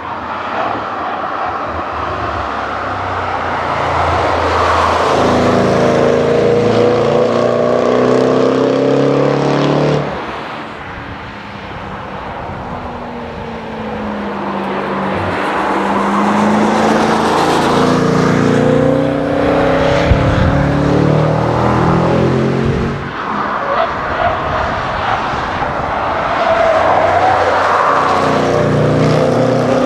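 Supercharged V8 exhaust of Jaguar F-Pace SVR prototypes under full throttle on a racetrack, rising in pitch as the cars accelerate past. There are three runs, each cut off abruptly, about ten seconds in and again a little past twenty seconds.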